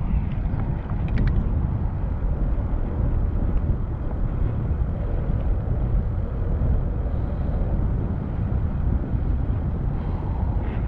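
Steady low rumble of wind and road noise from a moving bicycle in city traffic, with a few light clicks about a second in.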